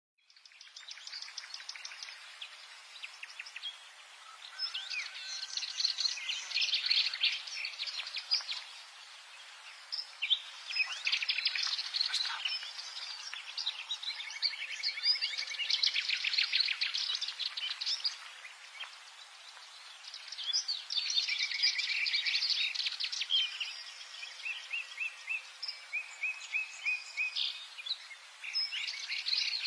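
Subalpine warbler singing: fast, scratchy, chattering warbled phrases a few seconds long with short pauses between them, and near the end a run of short repeated notes.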